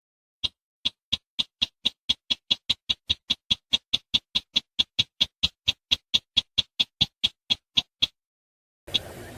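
Recorded crake call: a series of short, sharp, high notes that speed up steadily from about two to about five a second, then stop near the end. A faint hiss from a new recording follows.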